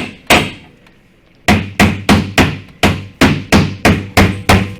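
Hammer blows on car body metal, consistent with knocking out dented rocker panel damage. One strike comes just after the start; after about a second's pause a quick, even run of about a dozen strikes follows, roughly three to four a second, each ringing briefly.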